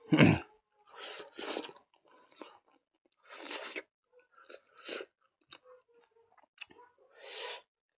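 Close-up chewing and crunching of food with the mouth, in separate short bursts every second or so. The loudest burst comes right at the start.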